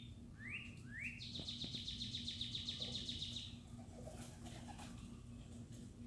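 A small songbird singing: three quick rising chirps, then a fast, even trill about two seconds long.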